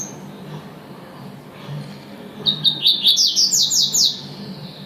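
Captive double-collared seedeater (coleiro) singing one phrase of its tuí-tuí song about two and a half seconds in: a quick run of short high notes that turns into fast descending notes.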